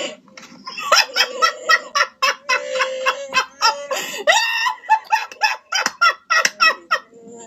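A woman laughing hard in quick bursts while her electronic Chewbacca mask plays its recorded Wookiee growls each time her mouth moves.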